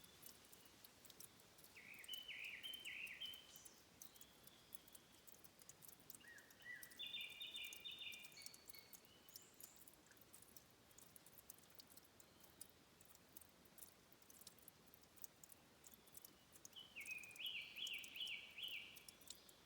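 A songbird sings three short phrases of quick repeated notes, over a background of faint, scattered high ticks.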